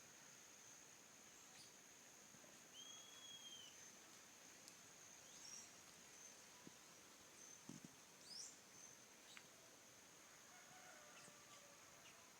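Faint birdsong: a few scattered whistled calls and chirps from forest birds, including a clear arched whistle about three seconds in and a quick looping note past the middle, over a steady thin high-pitched tone.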